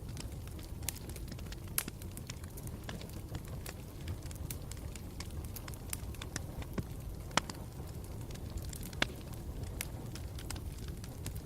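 Campfire burning: a steady low rumble with frequent small crackles and a few louder pops, one about two seconds in and two more in the second half.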